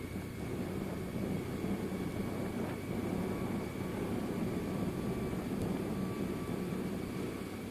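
BMW R1100RS's air/oil-cooled boxer twin running steadily at low, even revs while the motorcycle rolls along slowly, with a light rush of wind and road noise.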